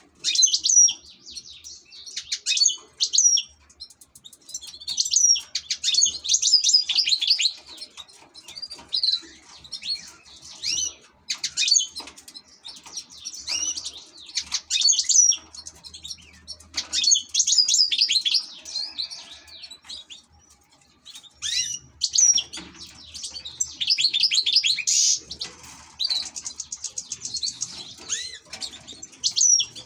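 European goldfinch singing: phrases of rapid, tinkling twitters and trills a few seconds long, broken by short pauses, with a fast even trill near the end.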